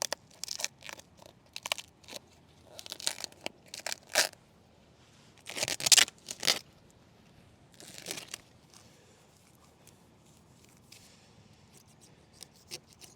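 Tape being peeled off a freshly glued stone corner in a series of short tearing rips, one every second or so, the loudest about halfway through.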